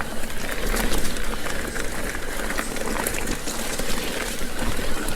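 Mountain bike riding up a steep dirt trail: a steady rough rustle of tyres on dirt with scattered clicks and rattles from the bike.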